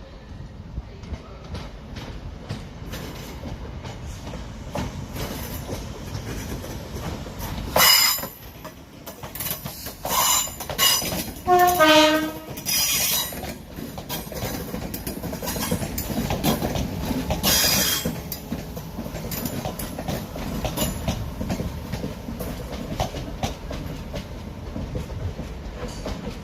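A passenger train moving along the platform with a steady rumble. It is broken by several loud, brief, high-pitched sounds, about 8, 10 to 13 and 17 seconds in, one of them falling in pitch in steps.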